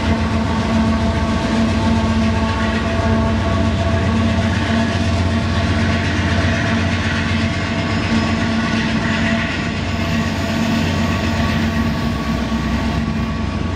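A coal train of open hopper cars rolling by with a Union Pacific diesel locomotive working at the rear, its engine running under load with a steady drone and whine, over the rumble of wheels on the rails. The hiss of the passing train swells as the locomotive goes by in the middle.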